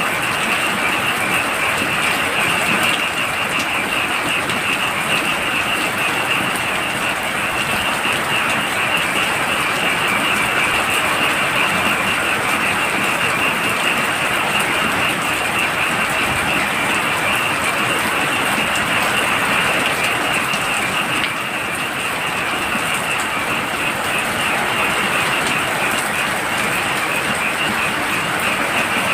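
Heavy rain falling steadily, with a dense chorus of frogs making a continuous high trilling over it.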